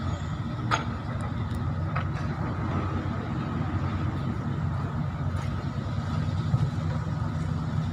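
A motor vehicle's engine running steadily with a low rumble, with a couple of sharp clicks in the first two seconds.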